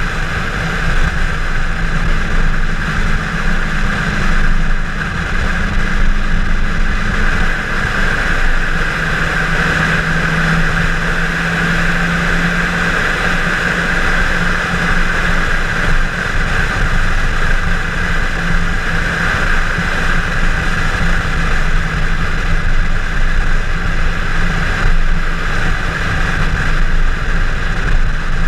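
Chevrolet Camaro 1LE at speed on a road course: a steady engine drone mixed with wind and road noise, heard from inside the car. The engine note drops a little about eight seconds in, then holds.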